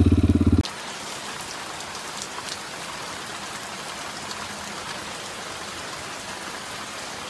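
A dirt bike's engine running, cut off abruptly less than a second in, followed by steady rain-like noise with faint scattered ticks.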